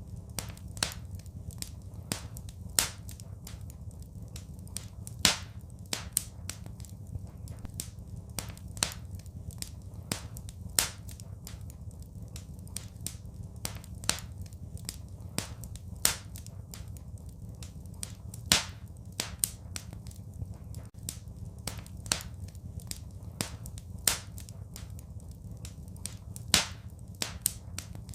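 Wood fire crackling in a fireplace: irregular sharp pops and snaps, a few of them much louder, over a steady low rumble.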